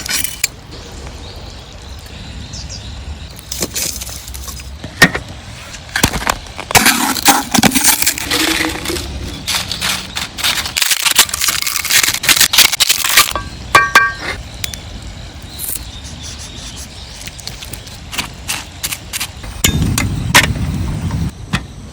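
Cooking preparation sounds: a run of clicks, knocks and crackles from food and utensils being handled, busiest in the middle, with a short metallic ring about two-thirds of the way through.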